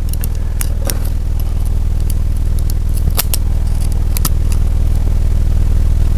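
Piston rings being spread and fitted onto a piston with a ring expander tool: a few light metallic clicks, over a steady low mechanical hum.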